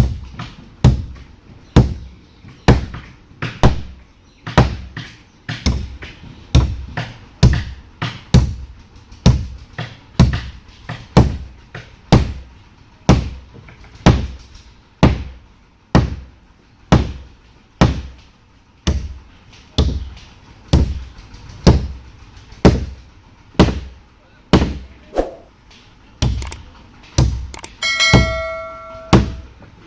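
Steady hammering, a loud blow about once a second with lighter taps between, each strike ringing briefly. Near the end a short electronic-sounding tone with several pitches sounds over the blows.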